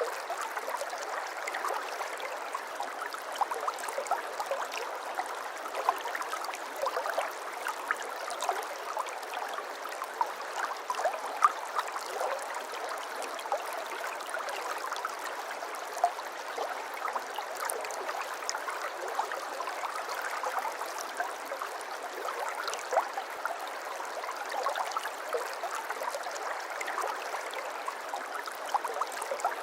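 Water flowing and babbling steadily in a small stream, with a constant rush dotted with many small splashes and gurgles.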